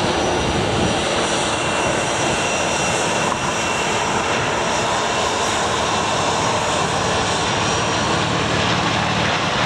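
Jet airliner engines running loud and steady: a dense roar with a thin, high whine over it.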